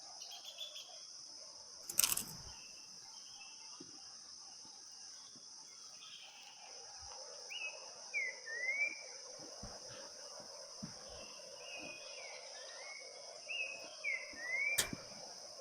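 Insects shrilling steadily in a high band with a bird calling over them in short chirps that glide up and down, in two runs midway and near the end. Two sharp clicks break in, one about two seconds in and one near the end.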